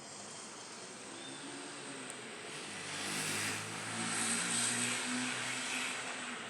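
An engine passing by: a low droning hum with a rushing sound that swells to a peak in the middle and then fades.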